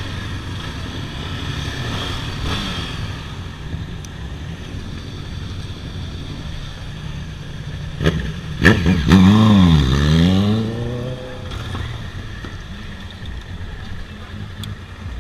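Motorcycle engines running steadily. About eight seconds in, one motorcycle is revved loudly, its pitch swinging down and up before falling away over about three seconds.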